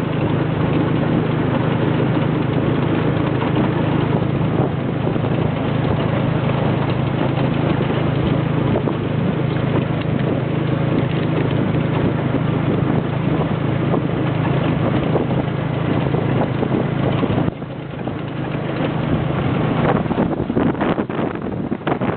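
Motor engine running at a steady speed with wind rushing over the microphone. The sound drops off briefly about 17 seconds in, then comes back with a few knocks and rattles near the end.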